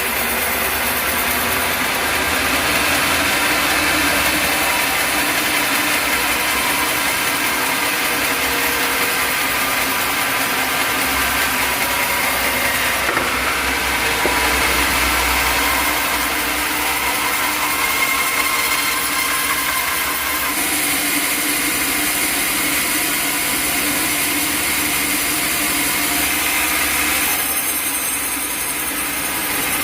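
Sawmill machinery running steadily: an engine-driven saw with a continuous mechanical drone and hum, its upper hiss shifting a little around halfway and again near the end.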